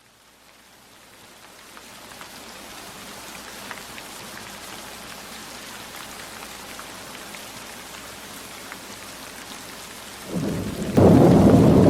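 Steady rainfall fading in, with scattered small raindrop ticks. About ten seconds in, a deep rumble of thunder swells and then breaks into a loud, sustained roll near the end.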